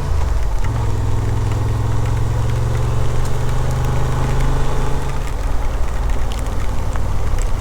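Motorcycle engine running at a steady low speed while riding slowly.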